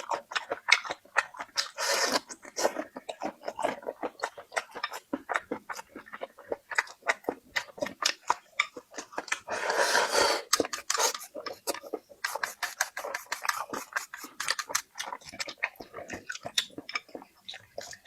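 Close-miked chewing of food: a rapid run of wet mouth clicks and smacks, with two longer rustling, crunchy stretches about two seconds in and again about ten seconds in.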